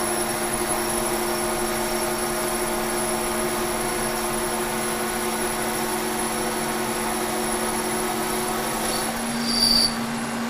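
Kearney & Trecker horizontal milling machine running as a lathe, its spindle and gearing humming steadily with several constant tones while a carbide insert takes a 40-thousandths turning cut on a steel chuck plate. About nine seconds in one of the tones drops out and a brief, louder high-pitched sound follows.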